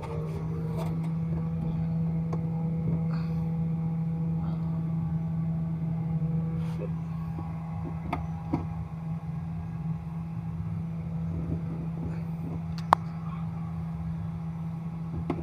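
Car engine idling with a steady hum, its pitch settling just as it begins. A few sharp clicks sound over it, the loudest about 13 seconds in.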